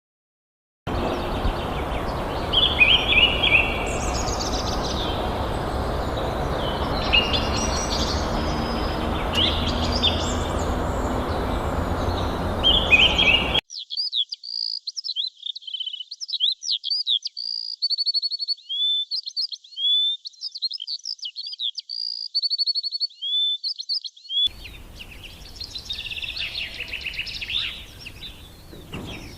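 Small birds chirping in quick, high-pitched calls, starting about a second in. The audio is three spliced recordings: the first and last have a steady background noise under the chirps, and the middle one is clean, with rapid, repeated chirps and short whistles.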